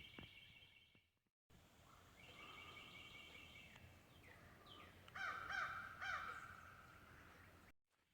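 Birds calling outdoors: repeated high, even phrases, then a few louder slurred notes about five to six seconds in. The sound cuts out completely for a moment about a second in and again near the end.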